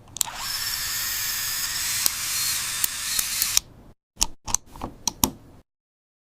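A long hiss lasting about three and a half seconds, followed by a handful of short sharp clicks or knocks, then the sound cuts out completely.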